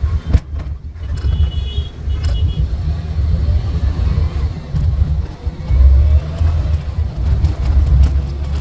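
Maruti Suzuki Omni van with its stock 796 cc three-cylinder engine running at high speed: a loud, heavy low rumble of engine and road noise that rises and falls.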